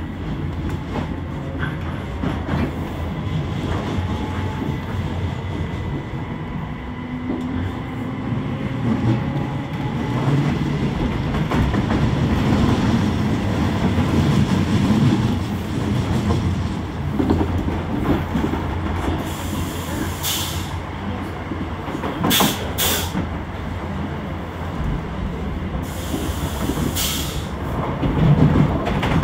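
Passenger train running, heard from inside the carriage: a steady rumble of wheels on rail with a faint whine, and several sharp clatters in the last third as the wheels cross rail joints.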